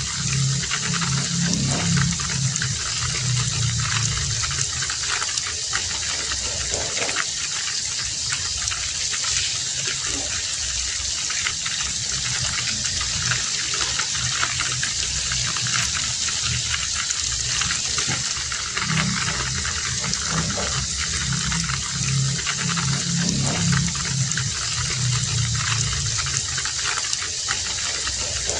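Heavy rain falling steadily in a dense, even hiss, with a low rumble that swells and fades twice.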